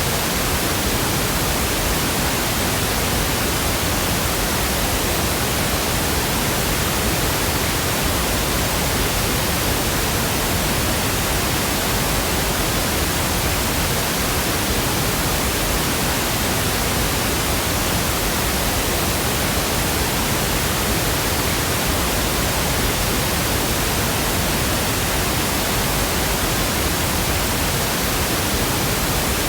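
Steady pink noise: an even, unchanging hiss spread across all frequencies.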